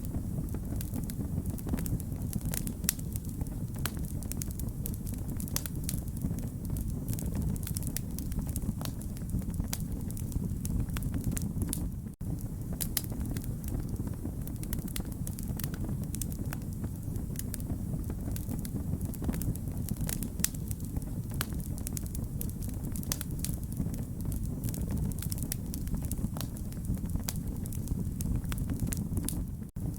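Wood fire crackling steadily, with many sharp pops and snaps over a low, even rumble of the flames. The sound cuts out for a split second twice, about twelve seconds in and near the end.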